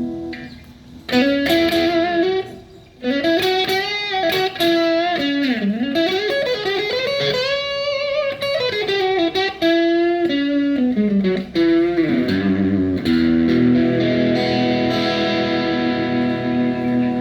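PRS 24-08 electric guitar playing a lead melody with string bends and vibrato, then settling on a sustained ringing chord about twelve seconds in.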